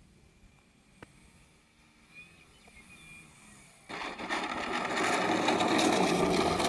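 Model aircraft's motor running: faint at first, then loud and buzzing from about four seconds in, starting abruptly.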